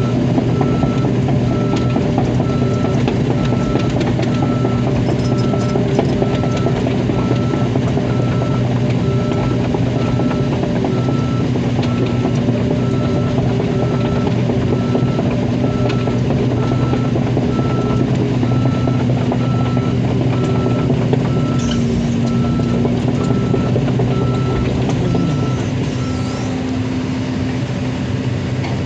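Long-arm excavator's diesel engine running steadily while its travel alarm beeps about once a second as the machine tracks along. The beeping stops near the end and the engine keeps running.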